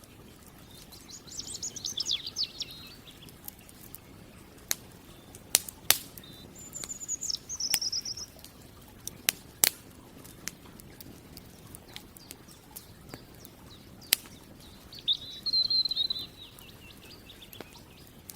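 Songbirds singing three short trilled phrases, about a second in, in the middle and near the end, while a campfire gives occasional sharp crackles and pops.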